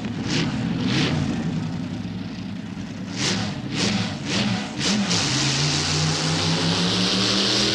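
Supercharged 565-cubic-inch big-block Chevy V8 in a mud-bogging truck, breathing through a 14-71 blower. It is revved in about seven sharp blips over the first five seconds, then held on and climbing steadily in pitch as the truck pulls away.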